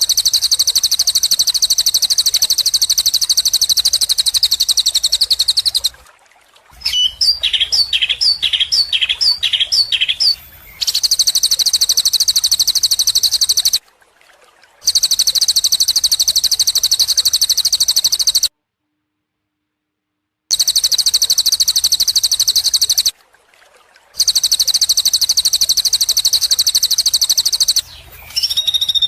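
Recorded songbird song spliced together: long, very rapid high-pitched trills broken by abrupt cuts to silence. After about seven seconds comes a run of about eight quick downward-sliding notes, and near the end a falling whistle.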